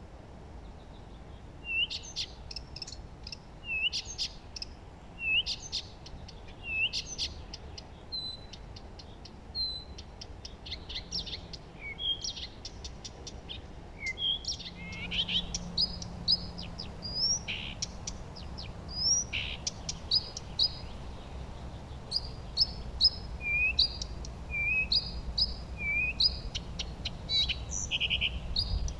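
Several songbirds singing and chirping, with short whistled phrases repeated about every second or so, growing busier and overlapping from about halfway through. A faint low rumble runs underneath.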